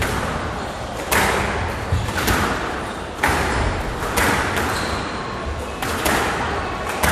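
Squash rally: sharp cracks of the ball off rackets and the court walls, about one a second, echoing in the court.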